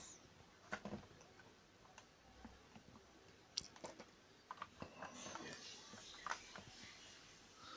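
Faint, scattered small clicks and ticks of a screwdriver working a washing-machine control board loose from its plastic housing and silicone potting.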